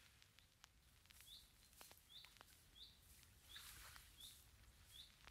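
Near silence, with a small bird chirping faintly: short high chirps a little more than once a second, and a few faint clicks.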